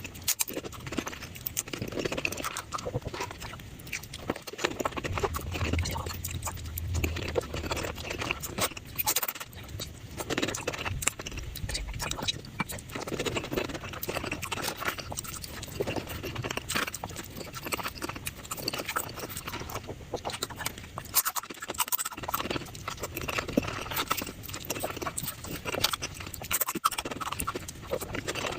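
Someone eating tacos, sped up about five times: rapid chewing and crunching heard as a dense run of short, crisp clicks.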